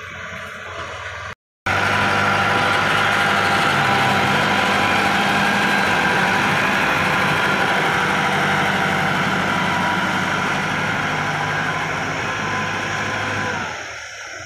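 Heavy engine running steadily at constant speed, loud and even. It cuts out for a moment about a second and a half in, and drops away near the end.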